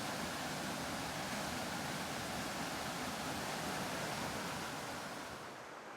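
Steady rushing of a river's flowing water, fading down near the end.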